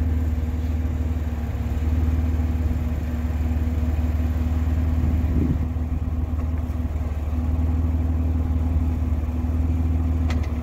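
Off-road vehicle's engine running steadily with a deep, even low note, with a brief click near the end.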